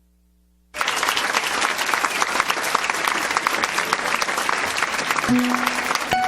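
Audience applauding, starting suddenly about a second in and holding steady, then dying away as the first plucked guitar notes sound near the end.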